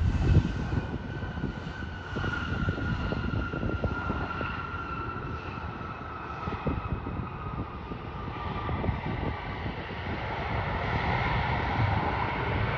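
Jet airliner's engines passing: a steady whine that slowly drops in pitch over a rough low rumble, with the noise swelling again near the end.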